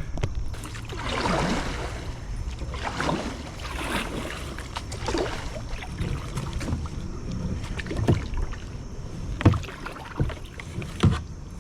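Kayak paddling: water swishing with each paddle stroke, about one every two seconds, over low wind rumble on the microphone. A few sharp knocks come in the last few seconds.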